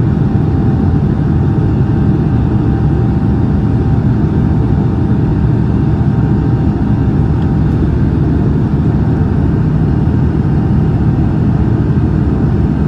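Steady low rumble of a Boeing 787-9 Dreamliner's engines and rushing air, heard from inside the passenger cabin, with a faint steady hum above it.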